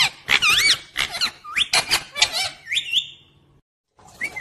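Pet parrot giving a quick run of short, high calls, each bending up and down in pitch. The calls cut off abruptly about three and a half seconds in, and one more call comes near the end.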